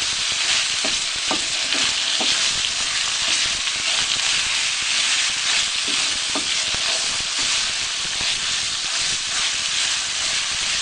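Serundeng (grated coconut with spiced beef) sizzling steadily as it fries dry in a wok, stirred by a spatula, with a few brief scrapes against the pan.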